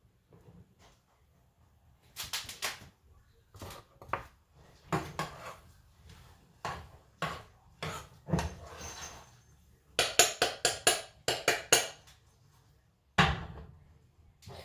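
Kitchen utensils and cookware knocking and scraping as food is handled, irregular clinks and scrapes with a quick run of sharp strikes about ten seconds in.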